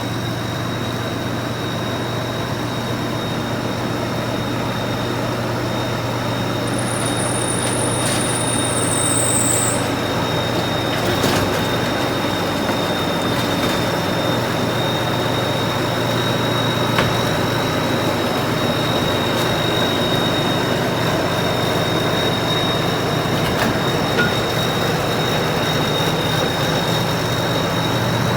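Combine harvester running steadily, its engine drone under a constant high-pitched whine, with a brief falling whistle about a third of the way through.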